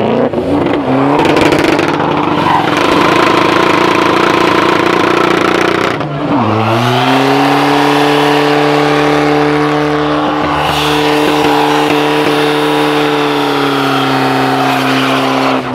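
Car engine held at high revs during a burnout, its spinning tyres giving off smoke. About six seconds in the revs dip briefly, then climb and hold steady again before falling away near the end.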